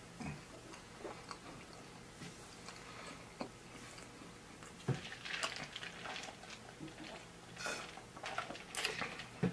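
Close-miked chewing with small wet mouth clicks and smacks, growing louder and busier in the second half, with sipping from a plastic cup near the end.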